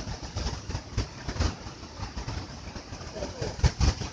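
Strong, gusty wind from an approaching hurricane buffeting the microphone in irregular low rumbles and thumps.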